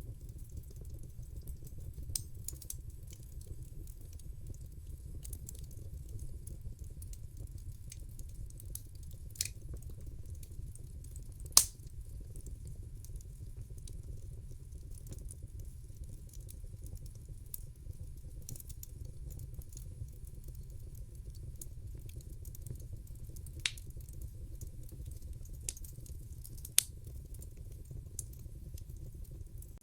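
Fireplace fire burning with a steady low rumble and scattered sharp crackling pops. The loudest pop comes just under halfway through.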